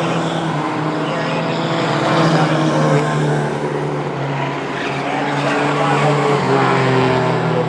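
Mighty Trucks race trucks running at speed in a pack on a short oval, their engines droning steadily together at racing speed.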